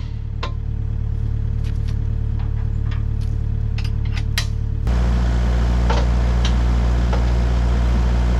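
Kubota U55 mini excavator's diesel engine running steadily, with scattered sharp clicks and knocks in the first five seconds. About five seconds in, the engine's drone steps up and gets louder, and stays there.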